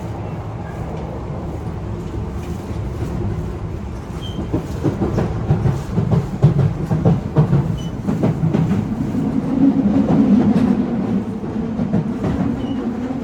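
Yokohama Minatomirai Railway Y000 series commuter train running, heard from on board: a steady rumble of wheels on rail. About four seconds in it grows louder, with a run of clicks as the wheels pass over rail joints, and near the end a steady hum joins it.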